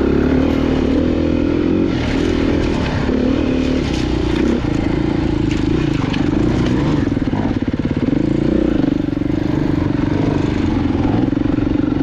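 Off-road motorcycle engine running hard at shifting revs while picking through rough trail, with scattered knocks and clatter from the ground and brush.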